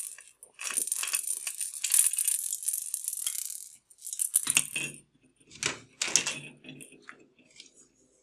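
Small plastic pieces and packaging handled and shaken, giving a busy rattling clatter for the first few seconds, then a few separate knocks that die away.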